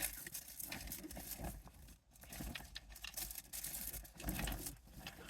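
Rustling and crinkling of packaging with small irregular taps and clicks as car decorations are rummaged through and handled.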